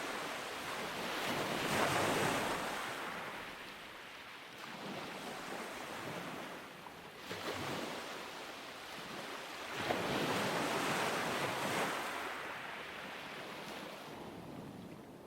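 Ocean surf breaking and washing up a beach in slow surges: the noise swells about two seconds in, again more weakly around seven seconds, and loudest from about ten to twelve seconds, then ebbs toward the end.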